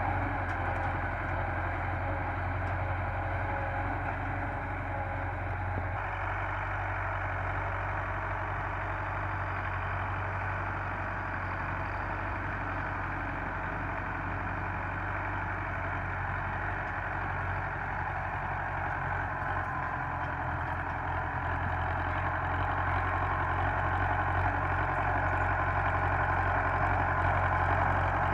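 Belarus 510 tractor's diesel engine running steadily, growing somewhat louder over the last several seconds.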